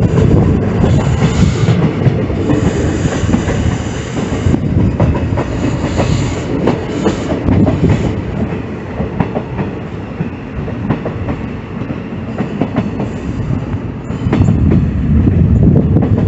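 Passenger train running on the rails, a steady heavy rumble with the wheels clattering over rail joints; it eases off for a few seconds past the middle and grows louder again near the end.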